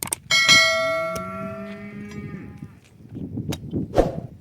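A cow mooing, its low call rising then holding, over a sharp metallic clang that rings out for about a second and a half. Then a few scattered knocks, one louder near the end.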